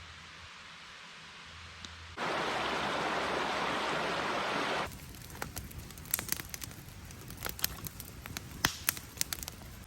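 Three short cut-together outdoor sounds. A faint hiss, then a louder, even rush of flowing stream water for about two and a half seconds, then irregular sharp crackles and pops of a campfire burning.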